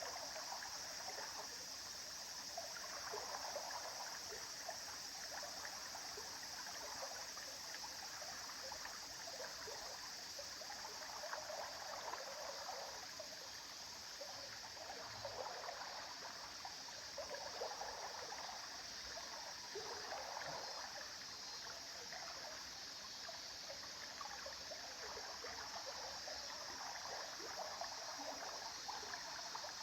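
Flowing river water: a steady rush with small, constantly shifting splashes and trickles.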